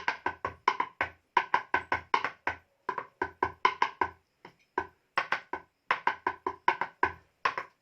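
Rhythmic wooden knocking that acts out rice being pounded: quick strikes in a changing, syncopated rhythm, each with a short hollow ring, broken by a couple of brief pauses.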